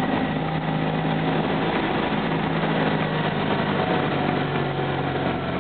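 Fiat 500's engine running steadily as the car drives slowly on a snowy street, heard from inside the cabin; its note drops slightly about three seconds in.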